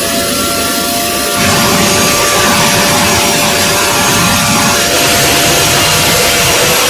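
Jet aircraft engines running: a steady whine over a loud rushing noise, which gets louder about a second and a half in.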